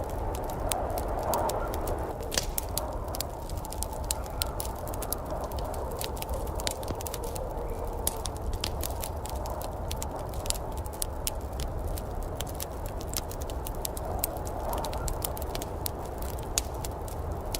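Wood fire crackling in a fireplace, with frequent sharp irregular pops over a steady low rumble and a soft whooshing that swells and fades.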